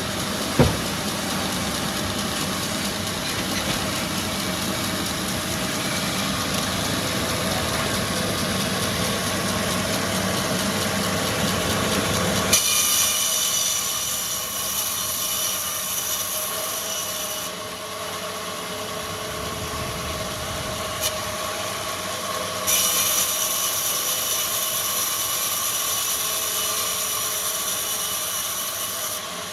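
Wood-processing factory machinery running steadily, with a sharp click about half a second in. About twelve seconds in the sound changes abruptly to a hissier machine noise that drops away and returns twice.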